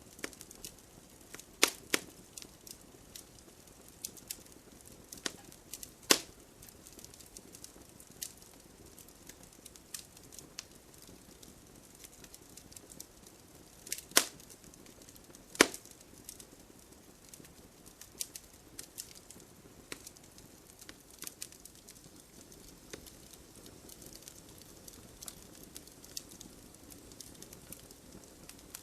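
Wood campfire crackling: irregular sharp pops and snaps over a soft steady hiss of burning, with a few louder pops standing out.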